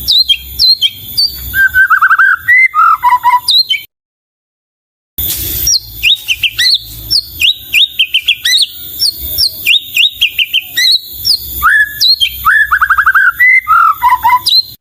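White-rumped shama (murai batu) singing a loud, varied song of fast whistled phrases, sliding notes and quick trills. It breaks off into total silence for just over a second about four seconds in, then resumes and stops abruptly at the end.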